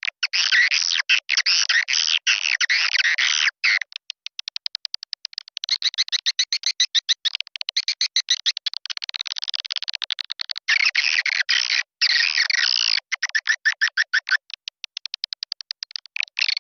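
Recorded swiftlet calls of the kind used to lure swiftlets: rapid runs of sharp clicks, about ten a second, alternating with dense stretches of chattering twitter.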